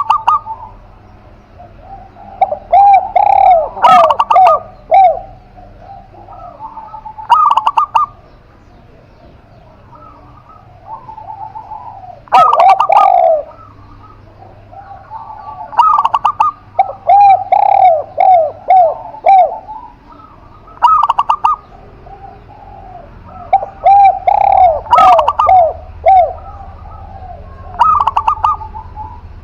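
A spotted dove and a zebra dove cooing, repeated phrases of rounded coos every few seconds, some with higher trilling notes. A few sharp clicks cut in among the calls.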